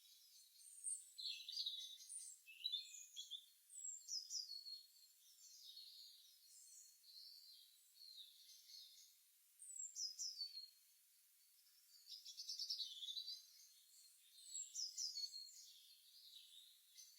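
Several songbirds chirping and singing in a morning chorus: short overlapping calls, quick sweeping notes and trills coming in clusters with brief pauses between them.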